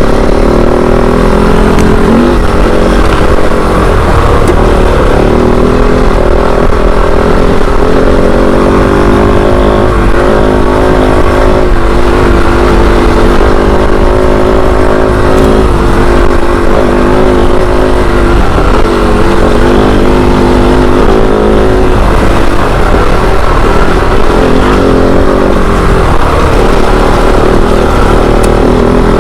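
Off-road motorcycle engine running as the bike is ridden on dirt, its pitch rising and falling with the throttle over a steady low rumble.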